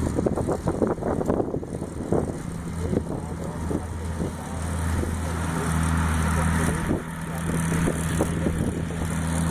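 Case 170 CVX tractor's engine running steadily as it pulls a Welger baler at work. Rattling and knocking from the machinery are dense over the first few seconds, then come only now and then.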